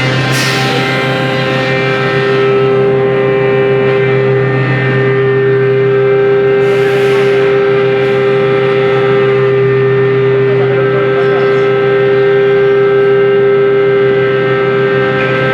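CNC router running: a steady high spindle whine over a lower machine hum, broken by two short hisses, one just after the start and one about seven seconds in.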